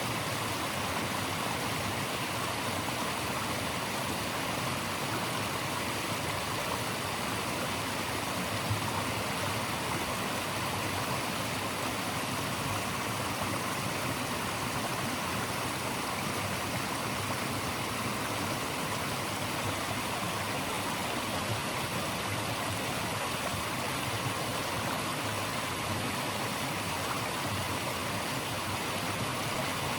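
Steady rush of flowing water from a stream, an even hiss that holds the same level throughout.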